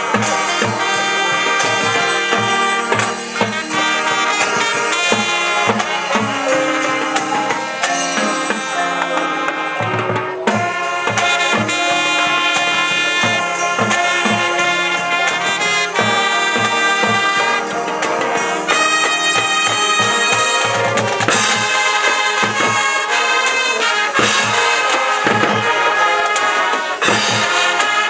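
Marching band playing: brass melody over a steady beat of marching drums.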